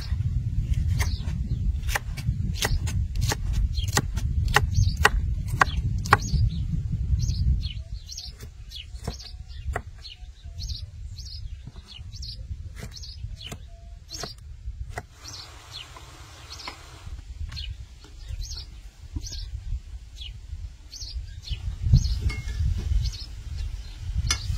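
Small birds chirping again and again through the whole stretch. For the first seven seconds or so there is also a run of sharp knocks over a low rumble, which then stops.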